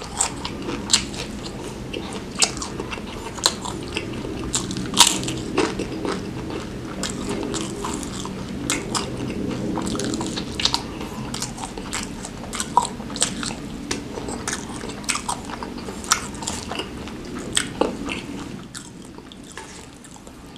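Close-miked crunching and chewing of crispy fried wontons (pangsit): many sharp, irregular crunches over wet chewing, thinning out near the end.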